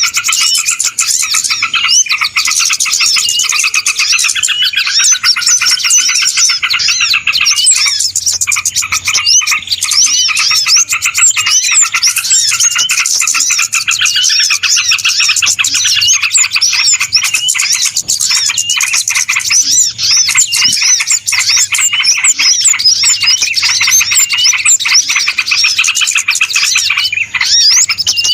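Noisy chorus of many small birds chirping and twittering rapidly without pause, a bird-lure ('pikat') call recording of the kind used to draw small birds in.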